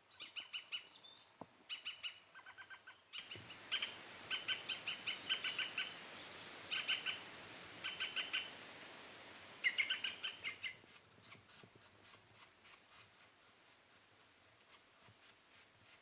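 Green woodpecker calling: repeated runs of short, quick notes, the laughing 'yaffle' call. The runs turn much fainter after about eleven seconds.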